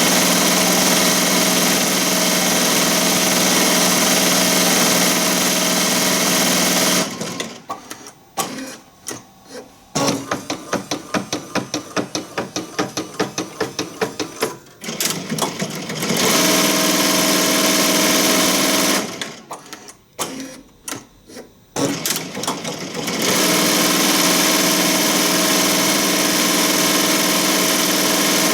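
ZSK Sprint 10-needle embroidery machine stitching at speed with a steady drone. About a quarter of the way in it stops, then stitches slowly with even clicks, about five a second. It resumes full speed, pauses once more briefly past the middle, and runs on steadily.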